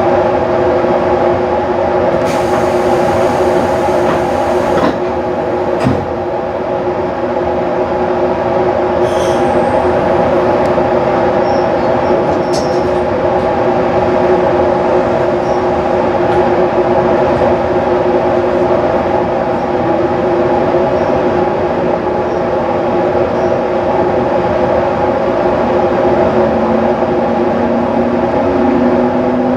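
Inside a JR 215-series double-deck electric train: a steady, loud hum of its equipment. There is a short hiss a few seconds in. Near the end a low tone appears and slowly rises in pitch.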